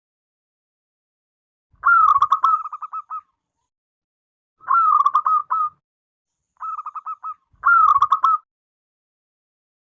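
Zebra dove (perkutut) cooing: four phrases of rapid, stuttering coos, about a second each with pauses between, the third one softer.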